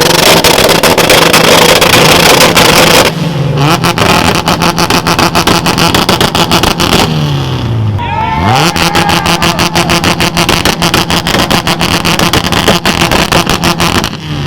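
A car engine held against a two-step launch-control rev limiter, its exhaust popping and banging in a rapid crackle at a steady high rev. It drops off about seven seconds in, then revs straight back up and holds on the limiter again until it falls away near the end.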